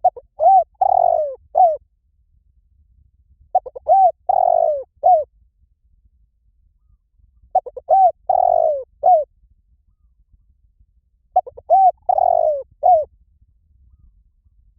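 Spotted dove singing: four cooing phrases, each a few short notes around a longer middle coo, repeated about every three and a half seconds.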